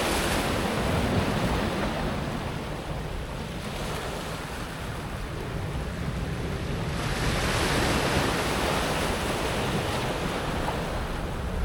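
Small sea waves breaking on a pebble beach, the water washing up and back over the smooth stones. One wave surges in at the start and another from about seven seconds in, with a quieter lull between.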